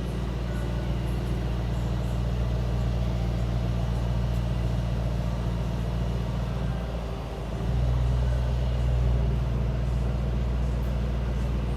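Mercedes-AMG E63 S's 4.0-litre twin-turbo V8 running steadily with a low, even hum. About seven seconds in, the note dips briefly and then settles a little louder at a slightly different pitch.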